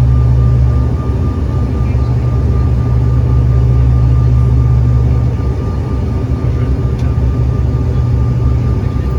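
Regional airliner's engines heard from inside the cabin: a loud, steady low drone with a thin steady whine above it and a rush of air noise. The drone turns rougher about five and a half seconds in.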